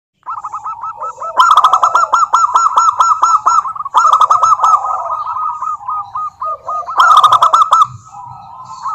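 Zebra doves cooing: rapid runs of short, hooked notes, about five a second, in bouts. The runs grow louder about a second and a half in and again at about seven seconds.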